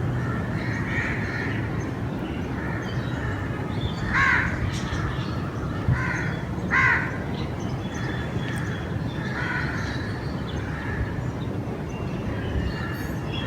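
Crows calling: a series of harsh caws, the loudest about four and seven seconds in, over a steady low background rumble.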